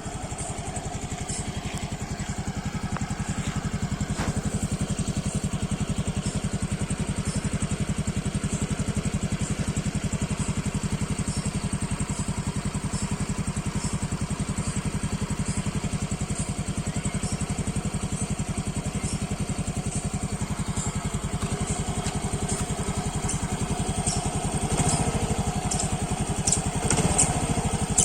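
Yamaha RayZR 125 Hybrid scooter's single-cylinder 125cc engine idling steadily through its exhaust, with a few louder moments near the end.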